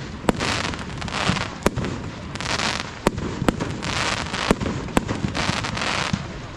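Fireworks going off: a run of sharp bangs, one every half second to a second, with bursts of crackling hiss between them.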